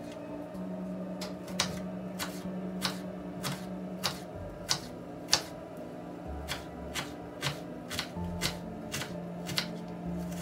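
A steady series of sharp taps, about one every half second or so, over soft background music with held notes.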